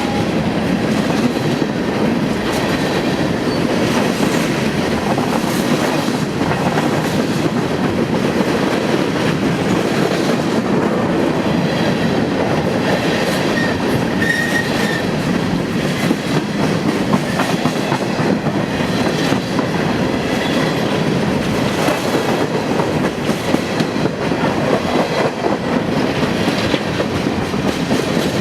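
A train passing close by, its wheels running over the rails in a loud, steady stream of sound with no break.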